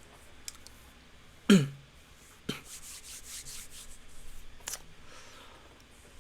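A man clears his throat once with a short vocal sound falling in pitch, followed by faint breathy noise and a couple of small clicks.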